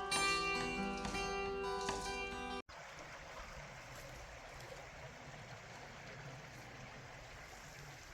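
Plucked-string music that cuts off abruptly about a third of the way in, followed by the steady rush of a creek's flowing water.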